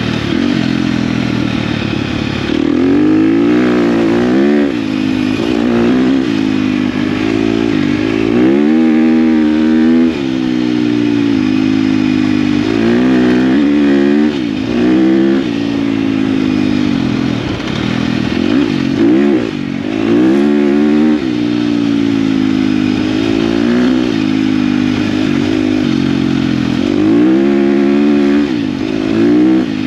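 KTM dirt bike engine under way, its revs rising and falling again and again every few seconds as the throttle is worked and gears change.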